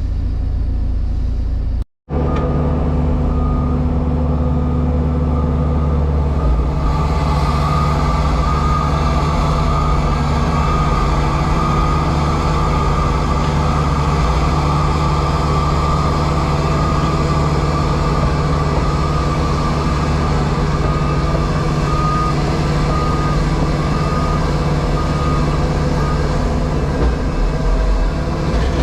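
JCB Pothole Pro's diesel engine and hydraulics running steadily, heard from inside the cab. The sound breaks off for a moment about two seconds in. From about seven seconds a louder hiss and a higher whine join in as the machine works.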